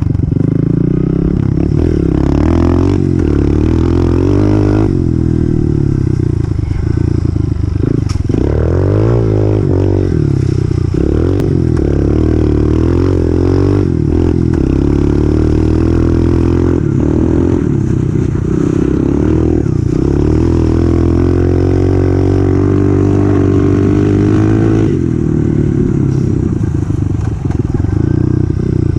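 A 2018 Honda CRF125F dirt bike's single-cylinder four-stroke engine running while it is ridden, its revs rising and falling throughout.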